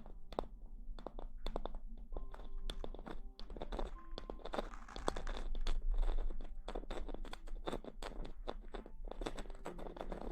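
Close-miked ASMR crackling and rustling: many quick, irregular crackles, thickening into a denser rustle about four to six seconds in.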